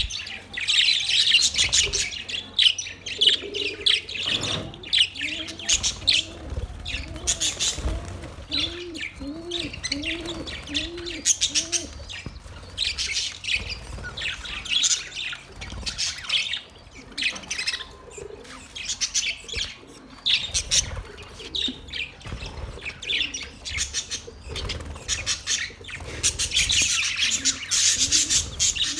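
Many small birds chirping and twittering in quick, overlapping high calls. From about five seconds to twelve seconds in, a run of about a dozen low, evenly spaced calls sounds beneath the chirps.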